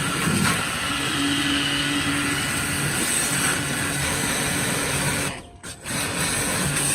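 Steady whirring of a small power tool motor, cut off for a moment about five and a half seconds in.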